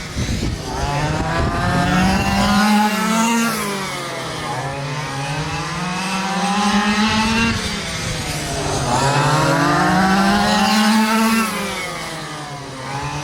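Engines of several quarter-scale RC race trucks running together. Their pitch rises and falls in repeating swells about every four seconds as the trucks accelerate and lift around the track.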